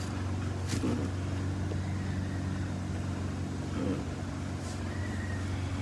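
Steady low engine-like hum. A few faint clicks or knocks sound over it.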